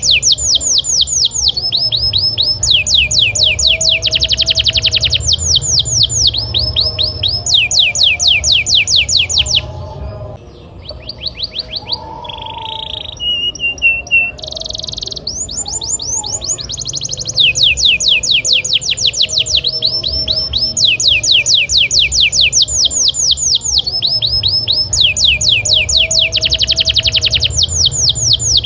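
Canary singing fast rolls: rapid trains of repeated downward-sweeping notes in phrases of a few seconds. About ten seconds in there is a short, softer stretch of varied notes and a briefly held tone, then the rolls resume.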